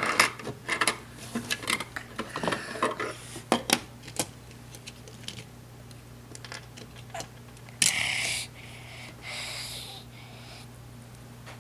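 Plastic Lego toy pieces clicking and clattering as they are handled, with a quick run of knocks over the first few seconds, then a short rush of noise a little under eight seconds in and a fainter one after it.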